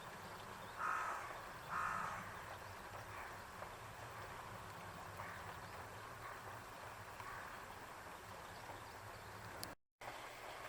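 A bird gives two short, harsh, caw-like calls about a second apart, over a steady low background rumble.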